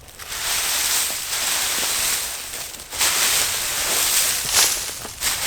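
Dry leaf litter and sticks rustling and crunching as a woodland debris shelter is pulled apart, in two spells with a brief pause between and a sharper crack near the middle of the second.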